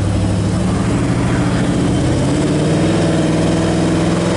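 1966 Chevelle SS 396's big-block 396 V8 running under way, its pitch climbing gradually from about a second in as the car picks up speed.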